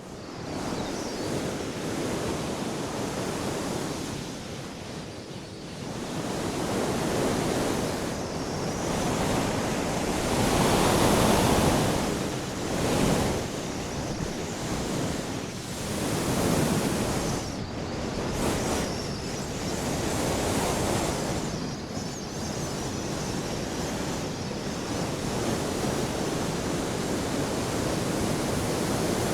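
Strong gusting wind: a rushing noise that swells and eases every few seconds, with no clear tone in it.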